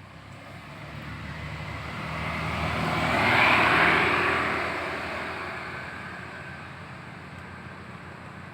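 A motor vehicle passing by. Its engine and tyre noise grows louder to a peak about three and a half seconds in, then fades away.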